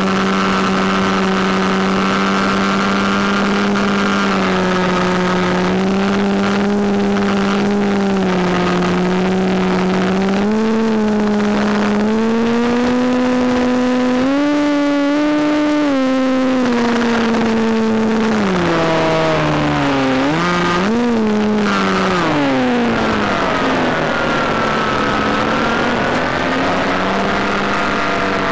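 Electric motor and propeller of a Penguin FPV model airplane running, heard with rushing air noise. The pitch follows the throttle: steady at first, rising about halfway through, then dropping and wavering before settling near the end.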